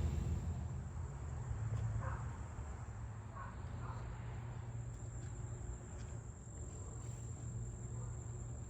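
A steady high-pitched insect trill, like crickets, over a low steady rumble.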